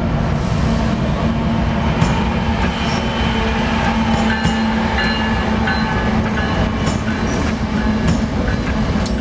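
Norfolk Southern diesel freight locomotives passing close by: a steady low engine drone and rumble, with wheels clicking over the rails. A few short high-pitched squeals come from the wheels midway.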